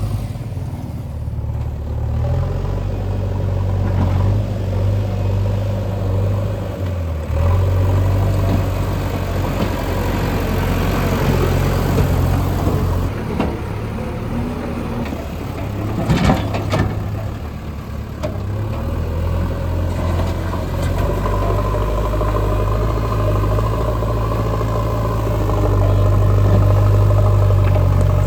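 Diesel engines of heavy road-construction machinery running with a steady low drone, the engine note and loudness shifting several times. There is a short burst of clattering about sixteen seconds in.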